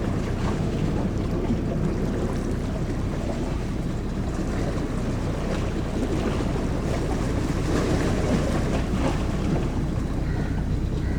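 Ferry's engines running with a steady low drone, under wind noise on the microphone and the wash of the sea.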